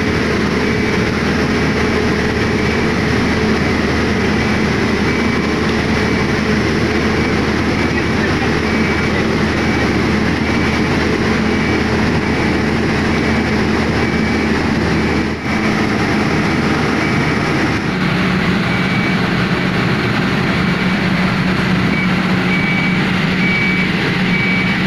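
Heavy diesel machinery running steadily, with a faint high warning beep repeating about once a second; the engine note changes about three quarters of the way through.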